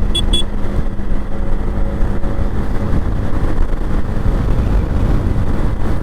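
Motorcycle riding noise: steady wind rumble on the microphone over engine and road noise. Two brief high-pitched beeps sound just after the start.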